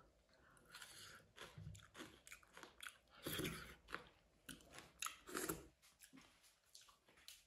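A person chewing food close to the microphone: irregular wet mouth clicks and smacks, with a couple of louder chews midway.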